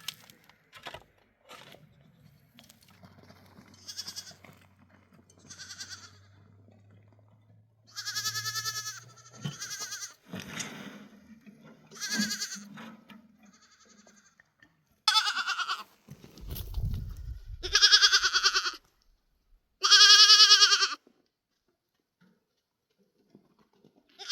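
A flock of sheep and goats bleating: about six loud calls of roughly a second each in the second half, the loudest near the end, with fainter bleats before them. A brief low rumble sounds partway through.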